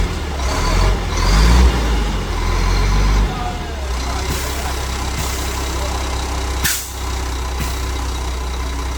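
Heavy truck's diesel engine running at low speed, louder for the first three seconds and then settling lower, with one short sharp air hiss about seven seconds in.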